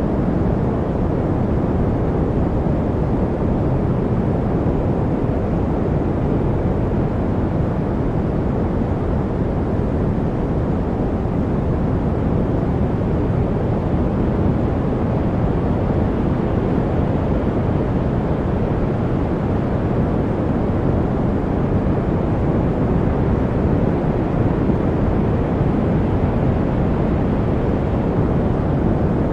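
Steady white noise for masking, heavier in the low end and thinning out above about 2 kHz, with no change in level or character.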